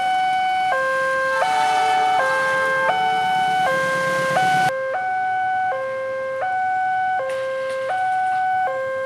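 Electronic two-tone warning alarm of a railway level crossing, alternating between a low and a high tone about every three-quarters of a second. The background hiss drops suddenly a little past halfway while the alarm keeps going.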